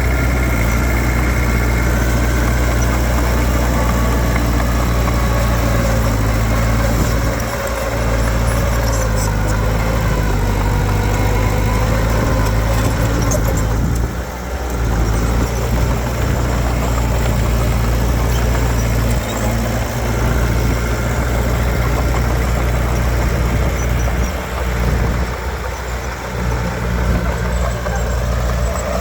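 Heavy diesel engine of earthmoving machinery running steadily, with a brief dip about halfway through and an uneven stretch near the end.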